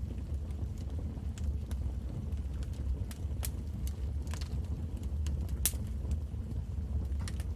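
Wood fire crackling in a fireplace: scattered sharp pops and snaps over a steady low rumble of the flames, the loudest pop about three quarters of the way through.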